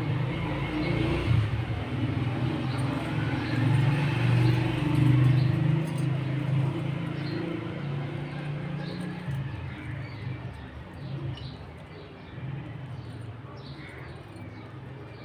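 Budgerigars chirping, many short high calls scattered throughout, over a louder low rumble that fades away in the second half.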